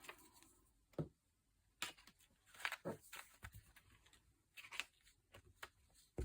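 Faint paper handling on a tabletop: a scattering of soft rustles and small taps, irregular and about a second apart.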